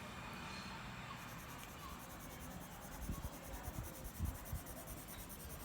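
Faint scratching of a pencil on paper, fast even back-and-forth shading strokes, with a few soft knocks of handling midway.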